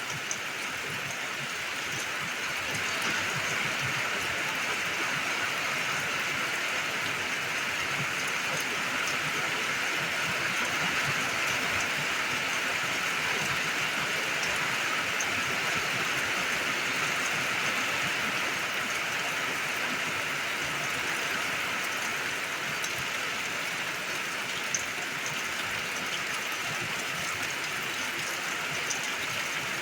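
Steady rain falling: an even, continuous hiss, with a few separate drops ticking through it.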